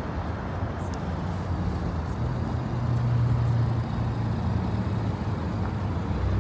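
Car engines running low and steady as cars roll slowly past, a deep drone that swells about three seconds in.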